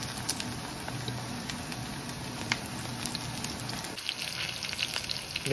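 Battered chicken pieces frying in hot oil in a stainless steel pan, a steady sizzle, with a few light clicks of metal tongs.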